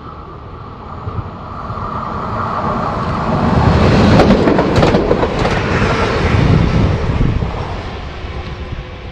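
A train passing on curved track, swelling to its loudest about four to six seconds in and then fading. A high steady whine is heard over the first few seconds, and a few sharp wheel clicks over rail joints come at the peak.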